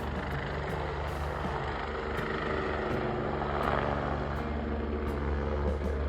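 Steady low rumble and road noise of a vehicle in motion, with a constant low hum underneath.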